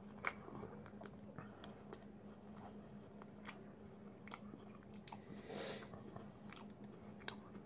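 Faint chewing of a macaron: soft, scattered mouth clicks and smacks, over a low steady hum.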